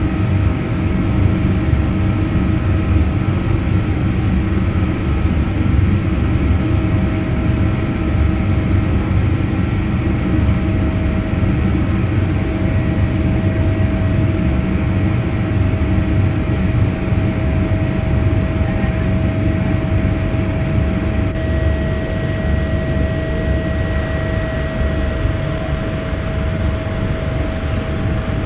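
Steady jet-airliner cabin noise inside a Boeing 787-8: a continuous low rumble of engines and airflow with a few faint steady tones.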